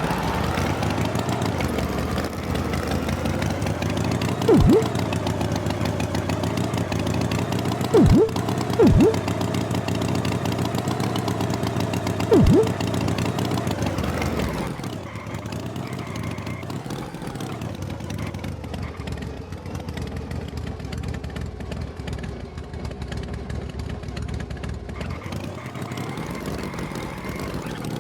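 Cartoon tractor engine sound effect running steadily, its pitch wavering up and down, with four short loud blips in the first half; it drops to a lower level about halfway through.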